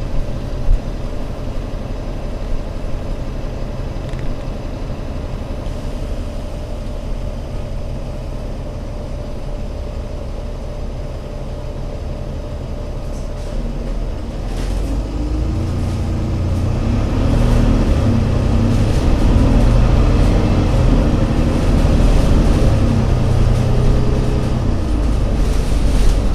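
Engine of an Alexander Dennis Enviro500 MMC Euro 6 double-decker bus, running steadily at first. From about fourteen seconds in it gets louder, and its engine note rises and falls in steps as it works harder.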